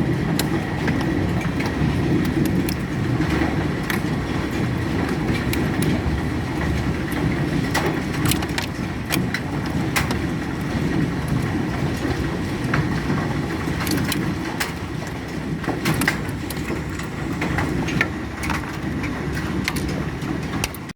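Large hailstones pelting down in a heavy storm: a dense, steady rumble of impacts with many sharp individual cracks of stones striking hard surfaces.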